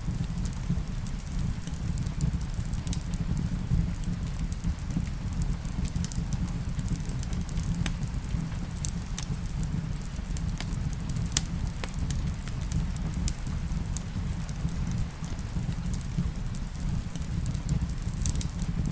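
Wood fire in a fireplace crackling, with scattered sharp pops at irregular moments over a steady low rumble of the flames. A soft even hiss of rain runs underneath.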